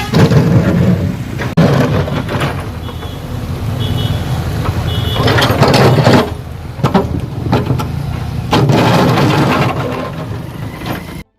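Heavy road vehicles such as trucks running and passing, their engine noise swelling and fading several times. Three short pairs of high beeps sound between about three and five seconds in. The sound cuts off abruptly just before the end.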